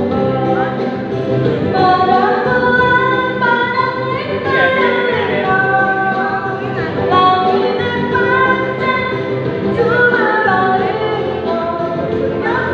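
Music: a sung melody in held notes that change pitch step by step, over a steady accompaniment.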